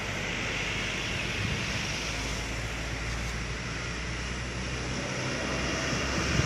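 Heavy diesel truck engine running steadily under load on a steep uphill climb, with a constant rush of wind noise on the microphone.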